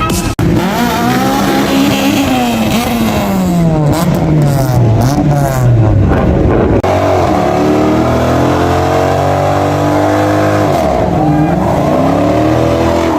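High-performance car engines revving and accelerating. The pitch climbs and falls, with several quick blips around four to six seconds in. After a cut, a higher, steady engine note is held, dipping and rising again near the end.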